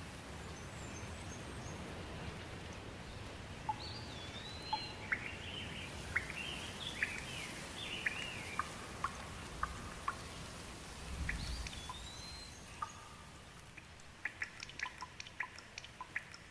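Steady rain with a bird calling repeatedly over it, in short chirps and rising and falling whistles, through the middle. Near the end the rain thins and single drips tick in quick succession.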